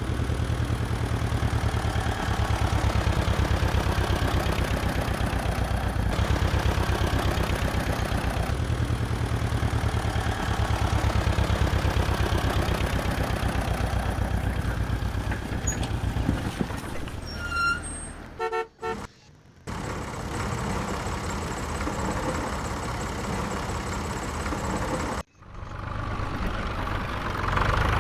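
Engine running with a steady, rapid low chug. A little past halfway comes a short run of rising beeps, and the sound cuts out briefly twice.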